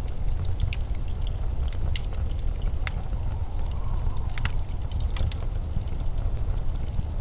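Blizzard wind, a steady low rumble, with a faint whistle that rises and falls about three to four seconds in. Scattered sharp ticks and pops sound over it.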